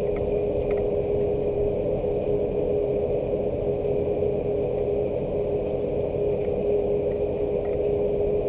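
Steady rain with a constant machine hum holding one pitch underneath, and a few faint scattered ticks like drops.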